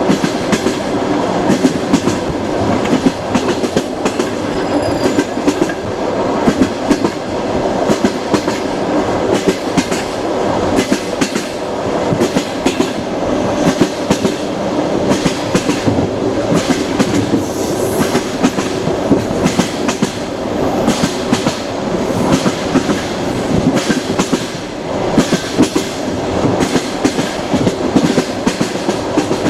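Train running steadily along the track: a continuous rumble with the clickety-clack of wheels passing over rail joints.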